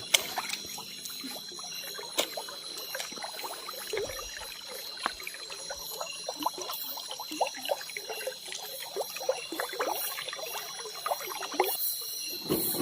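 Water sloshing and trickling in many small, irregular splashes.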